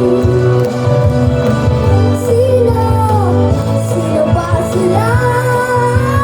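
A young girl singing a sustained, gliding melody with vibrato over a loud pop-rock backing track.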